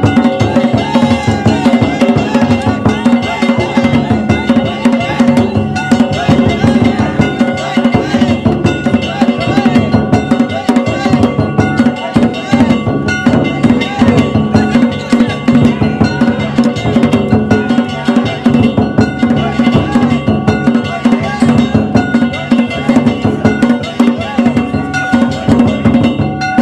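Danjiri float festival music (danjiri-bayashi): fast, continuous drumming with steady ringing tones over it, playing without a break.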